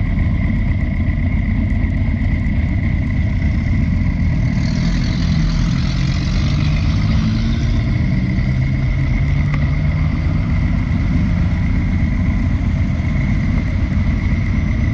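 Motorcycle engine running steadily with a constant low rumble and a thin steady whine above it; a rush of noise passes through from about four and a half to eight seconds in.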